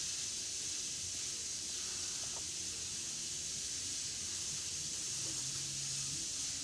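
Steady high background hiss of the recording, with a faint low hum underneath.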